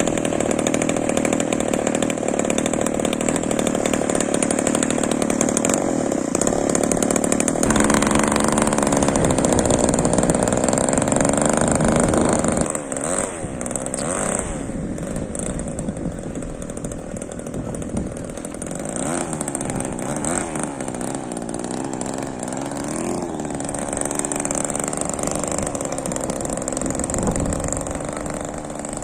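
Small two-stroke petrol engine of an RC model plane, a DLE 20cc, running hard. It gets louder about eight seconds in, drops back about halfway through, and its pitch then rises and falls again and again.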